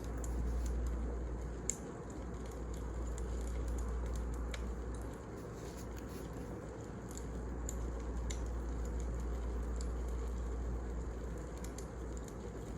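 Wood fire burning, with scattered crackles and small pops over a steady low rumble. One sharper pop comes a little under two seconds in.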